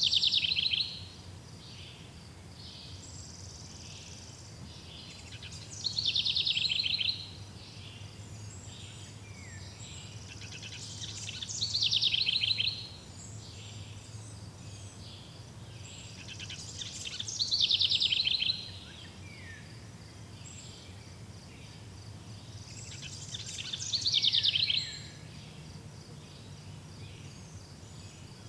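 A songbird repeating the same short, fast trilled song phrase about every six seconds. Each phrase lasts about a second, swells in loudness and then stops sharply. Faint steady insect chirring runs underneath.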